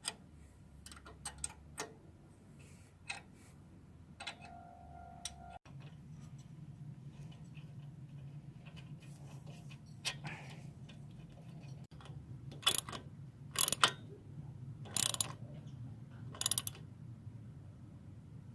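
Small metal clicks and clinks of hand tools and engine parts being handled, with a few louder sharp clinks in the second half and a brief squeak about four seconds in. A low steady hum sits underneath from about a third of the way through.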